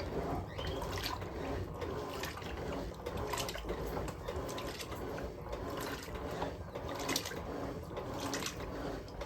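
Electrolux LM08A top-loading washing machine washing towels, water churning and swishing in the tub with a repeating pulse roughly once a second.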